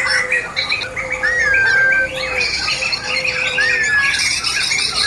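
Poksay mantel, a laughingthrush, singing a long unbroken burst of chattering song. Two clear whistled notes that rise and then fall stand out, about a second in and again near the end.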